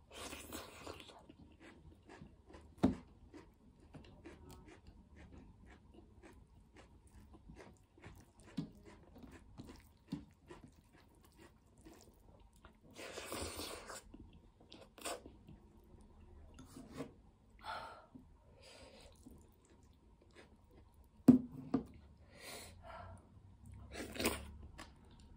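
Close-up chewing of maize rice and dried meat with nettles eaten by hand, with many small mouth clicks. A few brief rustles come as food is mixed by hand on a steel plate. Two sharp knocks fall about three seconds in and about twenty-one seconds in, the second the loudest.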